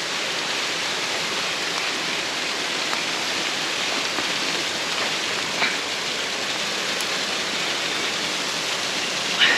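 Waterfall rushing in a steady, even wash of falling water, with a couple of brief knocks about halfway through and near the end.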